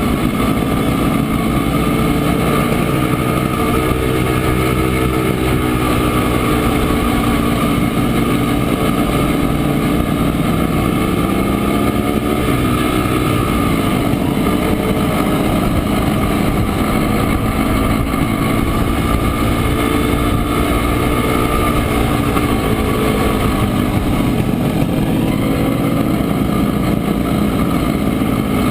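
Montesa Impala Comando 175 cc two-stroke single-cylinder engine running on the road, its engine speed rising and falling several times.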